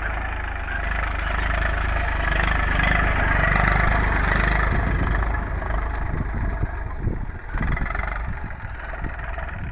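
Eicher 380 tractor's diesel engine running steadily, growing louder over the first few seconds and easing off after about five seconds, with uneven knocks in the second half.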